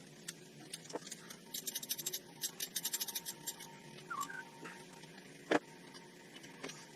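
Socket ratchet clicking in a quick run of strokes, followed by a few scattered clicks and one louder metal knock about five and a half seconds in.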